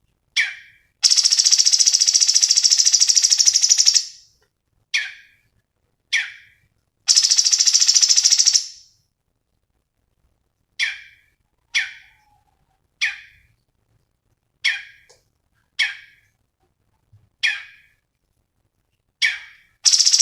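Cucak cungkok singing: short, sharp, falling high notes repeated every second or so, alternating with long, loud, rapid high trills that run about two to three seconds each, one starting about a second in, another about seven seconds in, and a third near the end.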